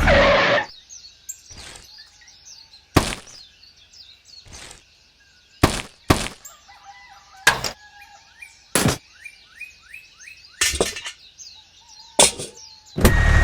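Small birds chirping faintly in the background, with about ten sharp knocks or taps at uneven intervals.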